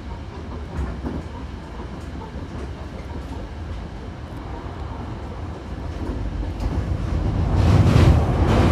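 Hankyu Kyoto Line train running, heard from inside the car by the doors: a low rumble that grows louder about seven seconds in as the train gathers speed, with wheel clicks over the rail joints near the end.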